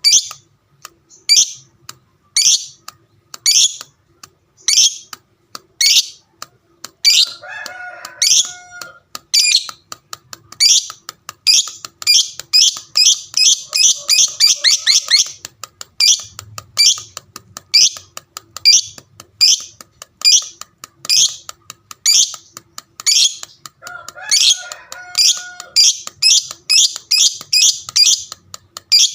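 Lovebird ngekek: a long run of shrill, sharp chirps, about one a second at first, then crowding into quick runs of several a second around the middle and again near the end. A lower, warbling call comes in twice, about a third of the way in and again late on.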